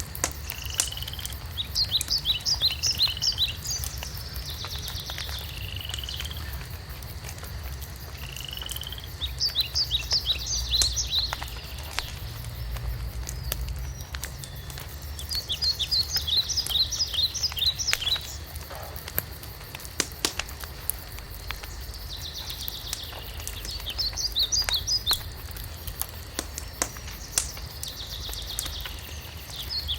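A songbird singing a short phrase, a rising whistle followed by a quick run of high notes, repeated about every six to eight seconds, over the scattered pops and crackles of a wood fire burning in a fireplace and a steady low rumble.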